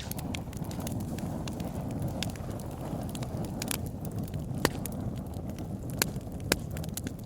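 Campfire burning: a steady low rumble of flames with frequent sharp crackles and pops, a few of them louder in the second half.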